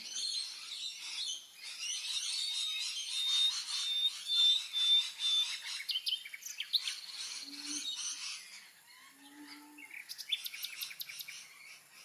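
Birds chirping and calling, with a run of short, evenly spaced high notes a few seconds in and two brief low notes later on. Toward the end a dense high insect trilling comes in.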